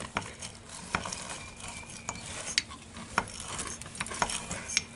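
Light scraping and scattered sharp clicks of a brush and small tools working on a metal carburetor part being scrubbed clean, about six taps at uneven intervals.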